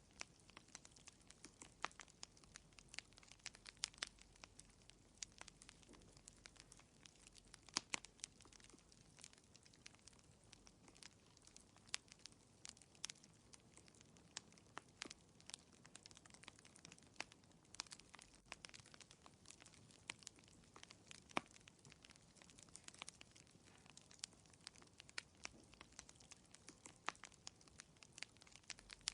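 Wood fire crackling in a fireplace: faint, irregular sharp pops and snaps, several a second, over a low steady hiss.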